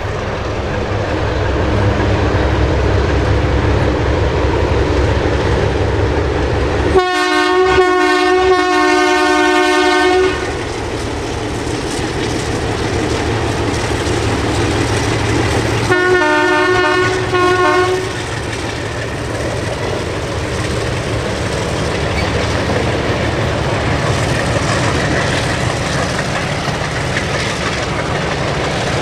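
A heritage train running by with a steady rumble of wheels on rail. Its locomotive sounds two long pitched blasts, the first about seven seconds in, lasting about three seconds, and a shorter one of about two seconds near the middle.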